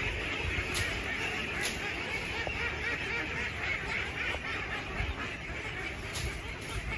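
A large flock of domestic ducks quacking all together: a dense, steady chorus of overlapping quacks.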